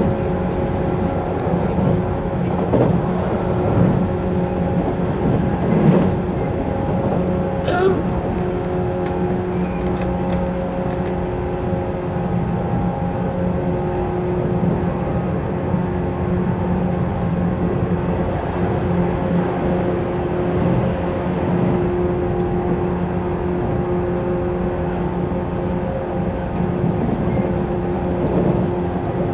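JR East 185 series electric train running at a steady speed, heard from inside the passenger car: a constant hum of traction motors and gears over the rumble of wheels on rail. A couple of short clicks come about six and eight seconds in.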